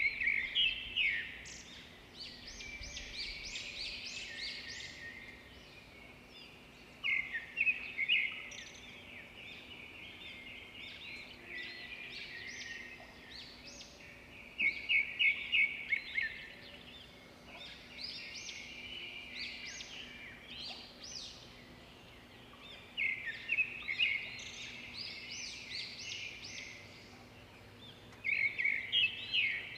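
Songbirds singing in bouts of rapid, high chirping notes that come every several seconds, with quieter calls in between. Under them is a faint, steady background noise.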